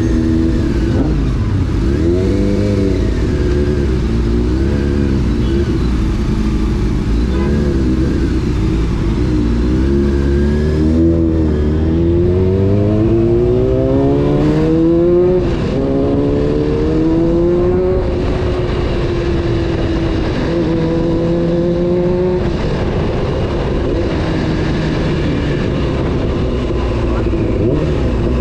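A Honda CBR600 F4's inline-four engine being ridden. The revs rise and fall with the throttle for about ten seconds, then climb hard, dropping at each of two upshifts, and settle into a steady cruise.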